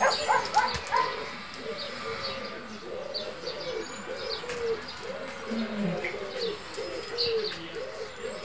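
Birds calling: many low, arched cooing calls overlapping without a break, with short high chirps above them.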